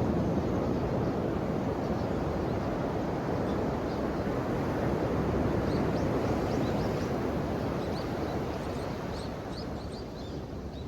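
Ocean waves washing on the shore, a steady rushing surf that eases a little near the end. From about halfway, a run of faint short high chirps sounds over it.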